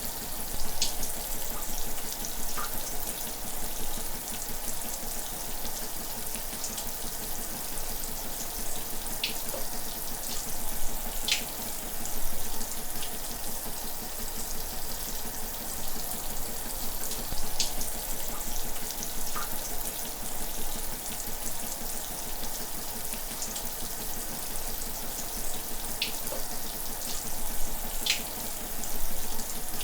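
Shower running: a steady hiss of falling water, with scattered brief splashes.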